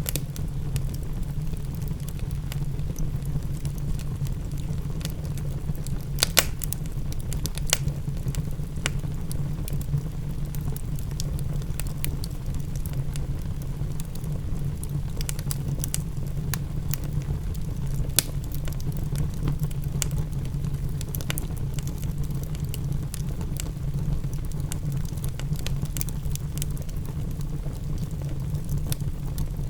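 Wood fire in a fireplace crackling with scattered sharp pops, the loudest about six seconds in, just under eight seconds in and about eighteen seconds in, over a steady low rumble with rain.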